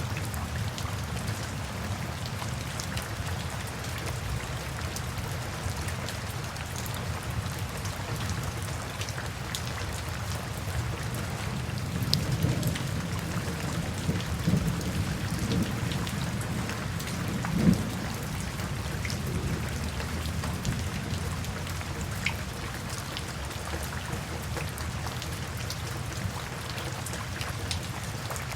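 Steady rain falling, with scattered individual drops, and a low rumble of thunder that swells about twelve seconds in and lasts several seconds.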